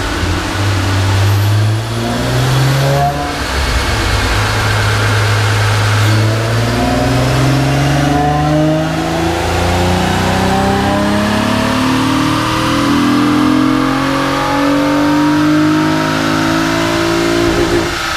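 Honda J30A4 3.0-litre V6 with an aftermarket exhaust and a short ram intake, making a wide-open-throttle pull on a chassis dyno. The engine note climbs steadily in pitch for about twelve seconds as it revs out, then stops near the end.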